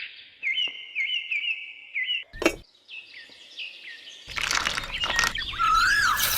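Bird chirping: a quick run of short repeated notes, about four a second, then a few falling notes. A sharp click comes a little before halfway through, and a louder rushing noise starts about two-thirds of the way in.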